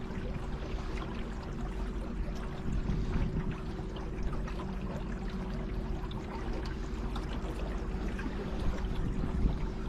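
Water trickling and splashing around a kayak on the river, with a steady low hum underneath.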